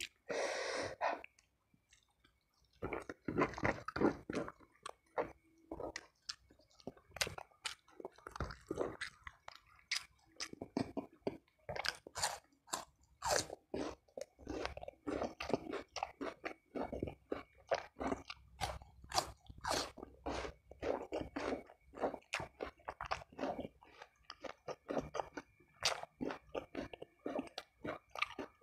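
Close-miked chewing with frequent crisp crunches and bites: a person eating fried chicken and fried snakehead fish by hand.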